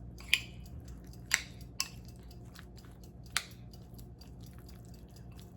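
Spoon stirring a bowl of thick oatmeal: soft wet squishing, with a few sharp clicks of the spoon against the bowl.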